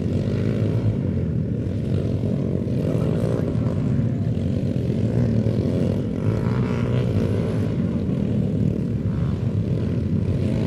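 Dirt bike engine running steadily in a continuous low drone.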